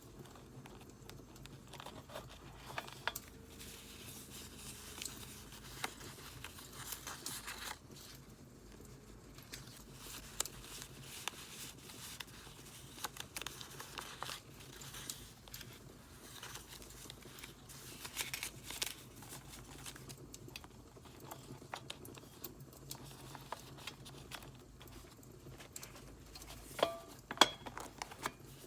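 Paper crinkling and rustling as journal papers and stickers are handled, with scattered crackles from a wood fire throughout. Near the end come a couple of sharp clicks with a brief ring.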